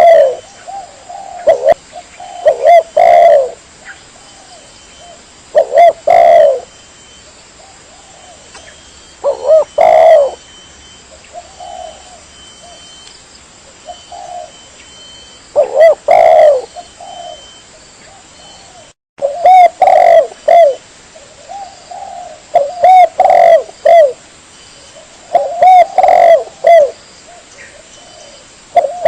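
Spotted dove (tekukur) cooing: phrase after phrase of low coos, a few seconds apart, with a brief cut about two-thirds of the way through. It is a lure call used to draw in other spotted doves.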